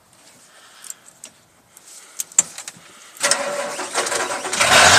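A few faint clicks, then about three seconds in the 1984 Ford F-250's 6.9-litre V8 diesel cranks and fires on a cold start with freshly cycled glow plugs, running through a 5-inch straight pipe and growing louder toward the end as it catches.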